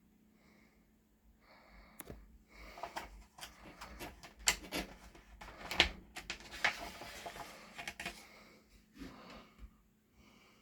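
A paper guidebook being handled and its pages turned: rustling with sharp clicks and taps, starting about two seconds in, busiest in the middle and trailing off near the end.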